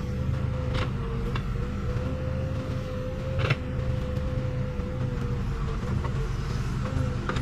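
Case 580 Super K backhoe loader's four-cylinder diesel engine running steadily under work, with a steady whine over the engine note and a few sharp knocks, about a second in and again midway.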